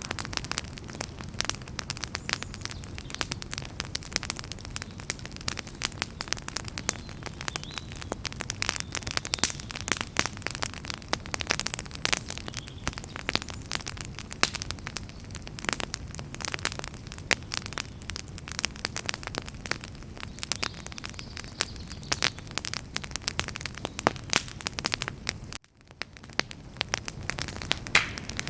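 Wood fire crackling, with dense, irregular pops and snaps over a low steady rumble. Near the end the sound cuts out for a moment and fades back in.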